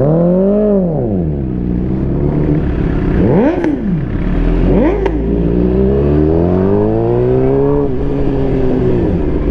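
Inline-four sport bike engines revving under way. The pitch jumps up and falls back in the first second, two quick short revs follow around the middle, then a long steady climb through the revs drops off near the end.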